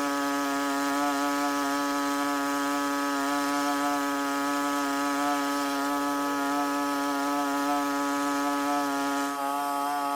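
A small motor running at a steady high speed: an even, unchanging hum with no rise or fall in pitch.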